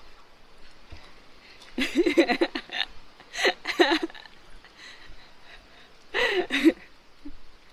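A baby's high-pitched wordless vocalising, squeals and giggle-like babble in three short bursts.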